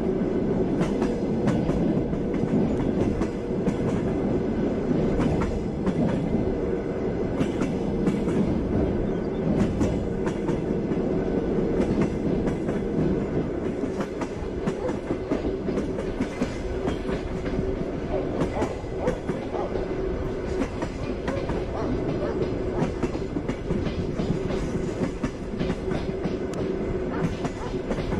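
Passenger train running at speed: a steady rumble with a low hum, and the wheels knocking and clicking over the rail joints.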